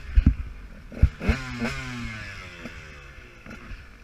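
KTM 125 two-stroke motocross engine winding down, its pitch falling steadily as the revs drop. A few sharp knocks come in the first second or so.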